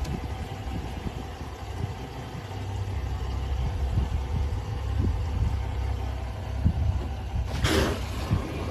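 Boat motor idling with a steady low rumble, a few dull knocks, and a short rushing noise about three-quarters of the way through.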